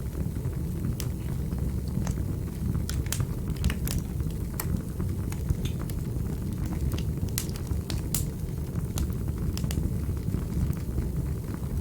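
Wood fire crackling in a fireplace: a steady low rumble of burning with irregular sharp pops and snaps, a few each second.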